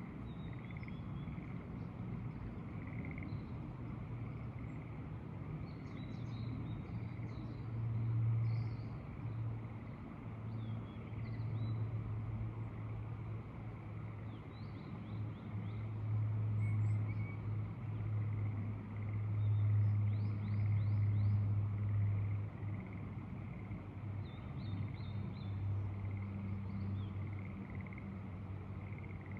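Outdoor rural soundscape of small birds chirping in short scattered calls over a low steady drone that swells louder twice, about eight seconds in and again from about sixteen to twenty-two seconds.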